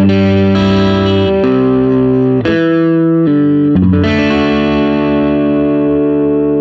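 Gibson 1968 Les Paul Custom electric guitar playing a run of chords through an amp, then a final chord about four seconds in that is left ringing and slowly fades.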